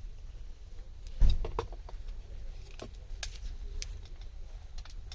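Wood fire crackling in a fire pit, with scattered sharp pops over a steady low rumble. There is one louder thump about a second in.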